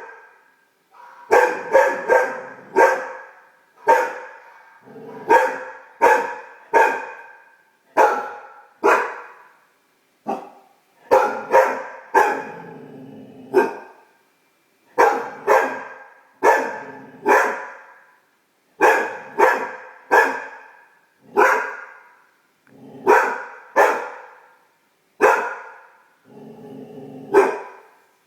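Great Dane puppy barking repeatedly, in quick runs of two or three barks with short pauses between the runs.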